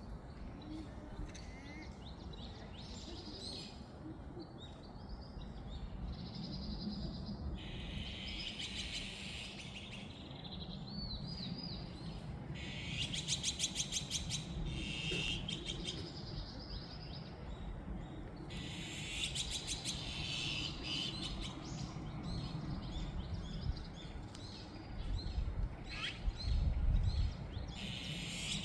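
Several songbirds singing and chirping in repeated phrases, one after another, over a steady low rumble that grows louder for a couple of seconds near the end.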